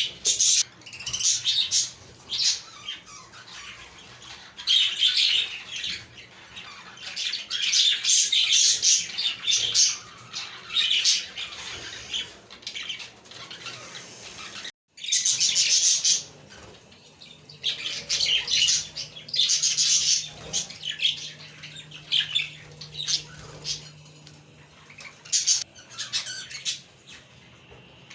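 A group of budgerigars chirping and warbling in repeated bursts, with a brief break about halfway through.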